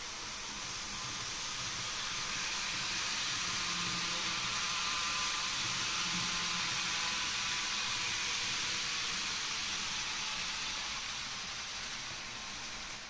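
N gauge model Shinkansen train running past on the layout, its motor and wheels on the rails a whirring hiss that grows louder over a few seconds and falls away near the end.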